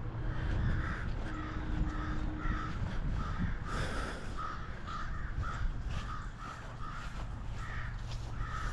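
Birds calling outdoors: a long run of short, harsh calls, about three a second, over a low steady rumble.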